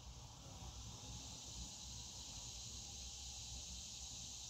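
Faint steady hiss with a low rumble underneath: background room tone between remarks.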